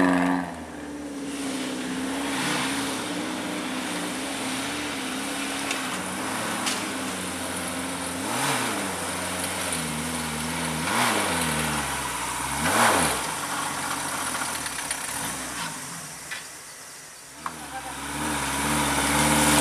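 Off-road 4x4 vehicle engine running at low revs and blipped several times, the pitch rising and falling with each rev. The engine quietens a few seconds before the end, then builds again.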